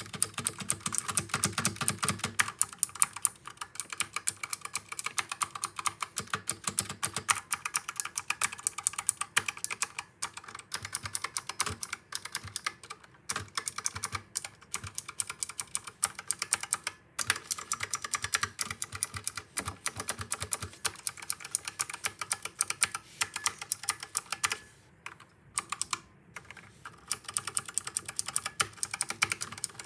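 Typing on a computer keyboard: a fast, continuous run of key clicks with a few short pauses, the longest about 25 seconds in.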